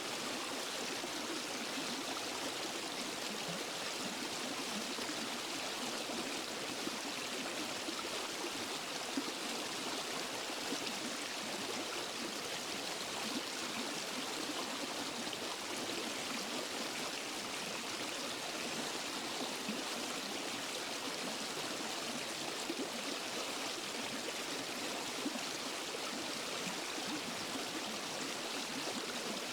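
Waterfall and forest stream: water rushing and splashing steadily, an even hiss with small splashes.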